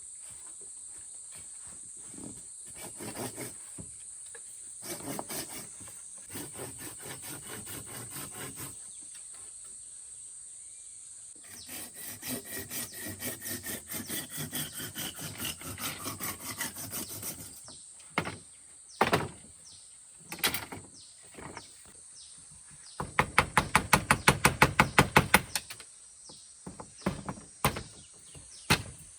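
A hand tool worked back and forth on wood in quick rhythmic strokes, in three runs with a few single knocks between them; the last run, near the end, is the loudest. A steady high insect drone runs underneath.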